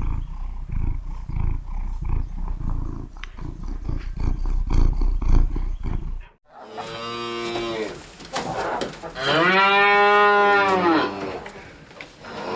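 Low, pulsing rumble for about six seconds, then a cow mooing twice in long, drawn-out calls that rise and fall in pitch.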